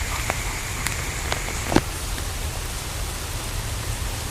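Steady rain falling, with a few sharp taps now and then.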